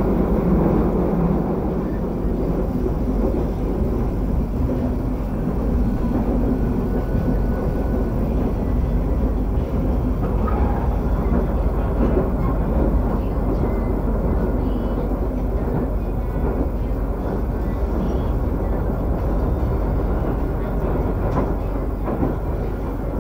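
Passenger train running at speed, heard from inside the coach: a steady low rumble of wheels on rails and car body.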